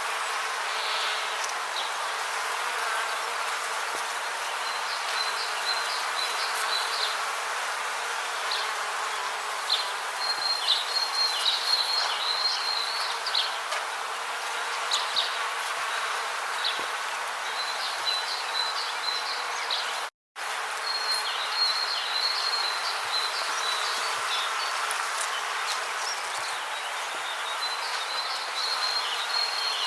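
Rainforest ambience: a steady hiss under bouts of high, rapid insect chirping that come and go every few seconds. It cuts to silence for a fraction of a second about twenty seconds in.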